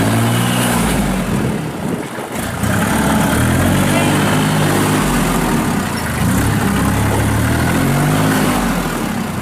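Kubota L39 tractor's diesel engine running, its pitch rising and falling three times, about every four seconds, as it is revved and loaded while the machine is worked.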